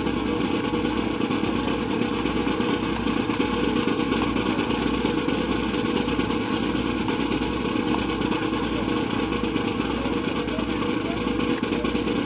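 A steady engine-like drone running without change, with a slow, low regular pulsing underneath.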